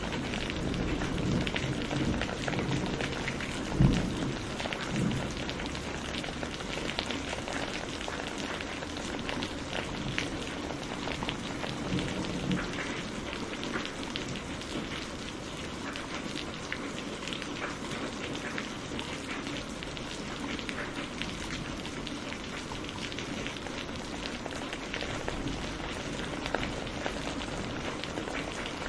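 Steady rain with many fine drop ticks, and low thunder rumbling through the first several seconds, with one sharp clap about four seconds in and a softer rumble around twelve seconds.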